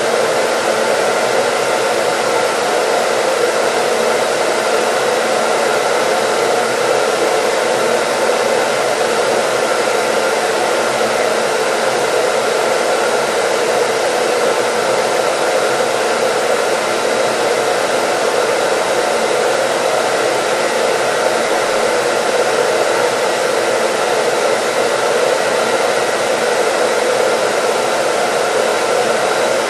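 Hair dryer running steadily as continuous white noise: an even, unchanging rush with a faint steady hum in it.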